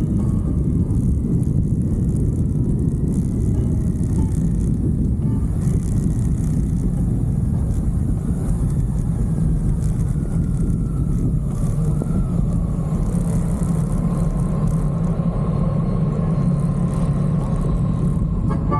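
Motorcycle being ridden: a steady, loud drone of engine and rushing wind and road noise. A faint whine falls in pitch about halfway through and then holds steady.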